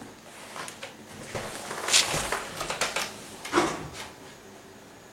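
Kitchen handling noises: a string of knocks, clatters and scrapes, the loudest about two seconds in and again at about three and a half seconds.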